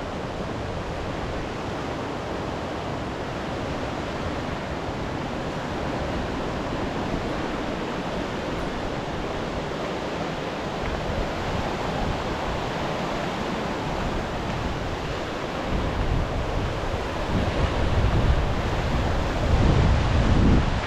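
Waves from the Kattegat washing onto the shore, a steady rush, with wind buffeting the microphone in low rumbling gusts that grow stronger toward the end.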